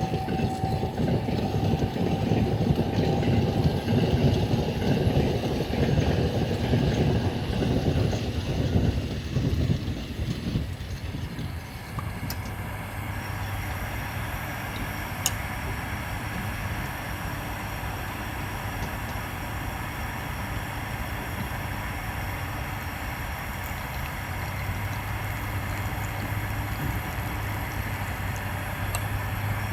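A train passing, its rumble loud for about the first ten seconds and dying away by about twelve seconds in. It leaves a steady low hum with a few faint sharp ticks.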